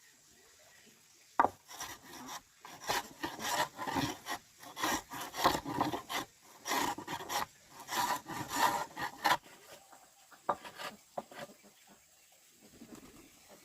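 A run of rough rubbing or scraping strokes, about one or two a second for some eight seconds, starting with a sharp knock.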